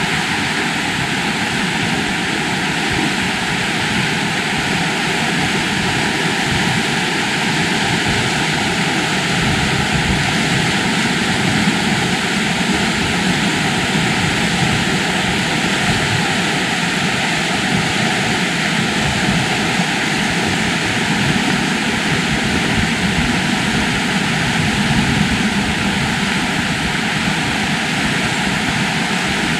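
The River Wharfe rushing over its rocks, a steady loud roar of water that does not let up.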